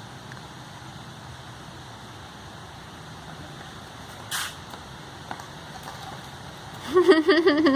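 A high, rapidly wavering voice, a child's sing-song vocalising, for about a second and a half near the end, over a steady low hiss. A short scuffing noise comes about four seconds in.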